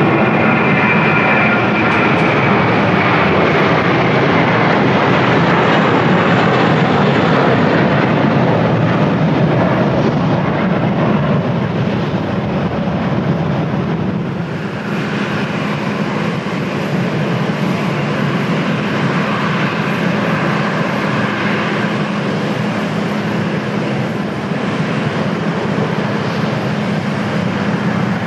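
Jet airliner engines running loud and continuous, with a faint high whine over the first few seconds that fades away; the sound eases slightly about halfway through and carries on steadily.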